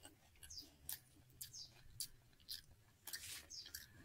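Faint chewing of crunchy Herr's cheese curls: irregular short, crisp crackles.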